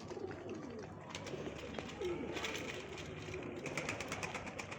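Domestic pigeons cooing, with repeated low coos through the whole stretch. From about two seconds in there is also a rapid run of sharp clicks or rustles.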